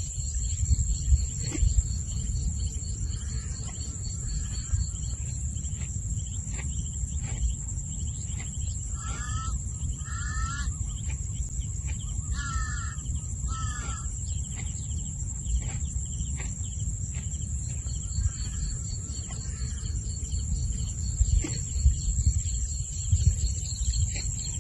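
Evening ambience over a rice field. An insect chorus keeps up a steady high buzz with a faster pulsing trill at the start and the end. A bird calls four times in two pairs near the middle, over a low rumble.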